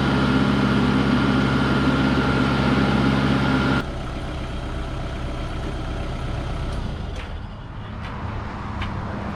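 An engine idling steadily, which cuts off abruptly about four seconds in. A quieter low rumble and a few faint clicks follow.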